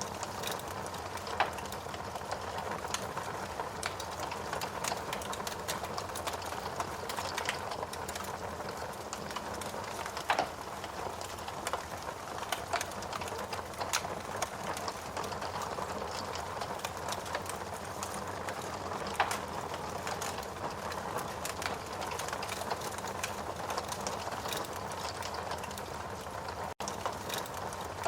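Wood fire burning in a fireplace: a steady hiss of burning logs with frequent small crackles and a few louder pops. The sound drops out for an instant near the end.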